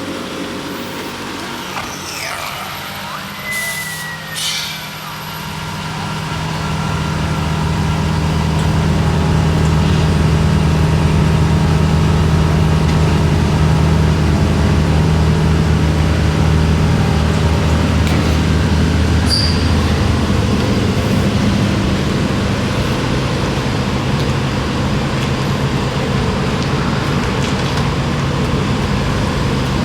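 Pickup truck running down the road, heard from inside the cab: a steady engine drone that builds over the first several seconds and then holds even.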